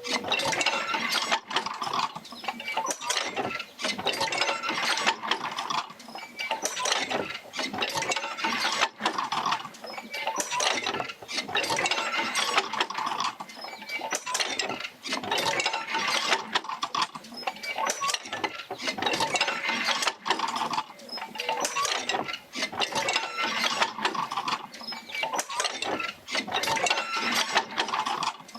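Victorian-era oil field field wheel and its jerker lines working back and forth, with continuous clanking, rattling and creaking that swells and eases in a repeating cycle every few seconds as the wheel rocks.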